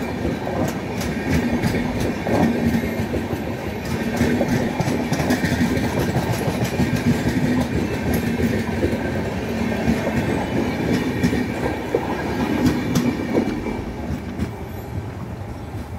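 Express train coaches rolling past: a steady wheel-on-rail rumble with the clickety-clack of wheels over rail joints. It eases off a little near the end as the last vehicle, the brake van with the tail-end X mark, goes by.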